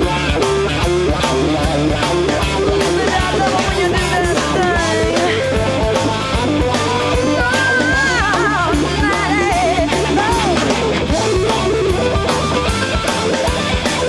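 Blues-rock shuffle: an electric guitar lead with bending notes over bass and drums.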